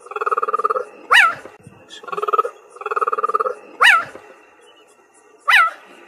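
Cheetah calling: stretches of rapid pulsing, rattling call, broken by three loud, high chirps that drop in pitch, about a second in, near four seconds and near five and a half seconds.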